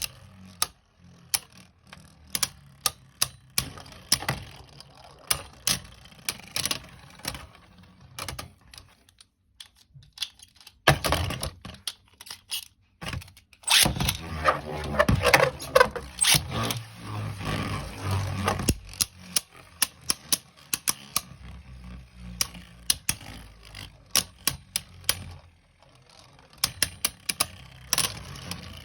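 Sharp, irregular plastic clicks and clacks from Beyblade tops and their launchers being handled. In the middle comes a louder stretch of several seconds of dense rattling and scraping, as from tops clashing in a plastic stadium.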